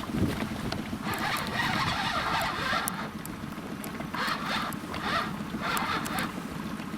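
Spinning reel winding in line in several short, rasping spells while a heavy fish is played, which the angler takes for a big zander.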